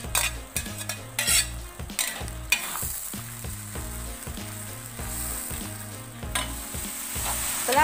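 Chili sambal with fresh green chilies sizzling in hot oil in a non-stick wok, stirred and scraped with a metal spatula; the scrapes are most frequent in the first half, and the sizzle gets louder in the second half. The spices are being fried until fragrant and dry.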